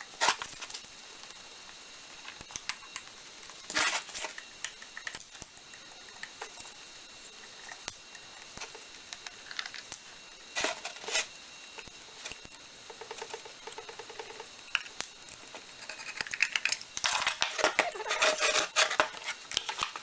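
Scattered metallic clinks and taps of hand tools and steel parts being handled while a lathe's quick-change gearbox is taken apart to remove a shaft. The clinks come in a busy flurry in the last few seconds.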